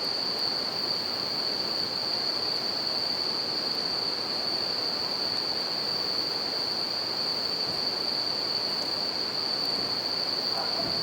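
Bell crickets (suzumushi) singing in a steady, unbroken high-pitched chorus over the constant rush of a river, with a few faint crackles from a wood campfire.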